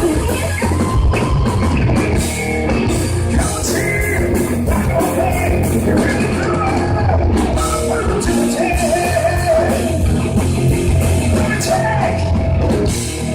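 Rock band playing live: steady drums and bass under a wavering lead melody line.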